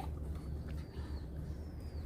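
Faint, thin, high whistled notes of a distant bird, each about half a second long, the last sliding slightly down, over a steady low outdoor rumble.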